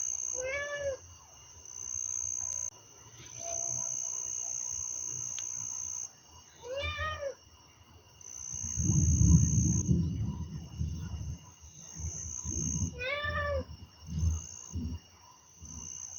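Distant thunder rumbling for about two seconds midway, over insects trilling on and off. A short rising-and-falling animal call sounds three times, about six seconds apart.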